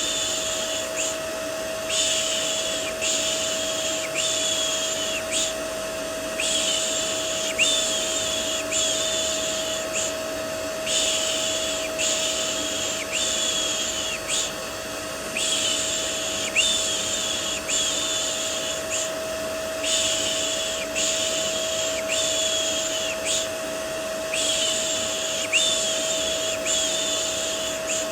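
Vacuum cleaner motor running steadily with a constant hum, under a repeated soft "shh" shushing, about one shush a second in runs of four with a short break between runs. This is baby-soothing white noise.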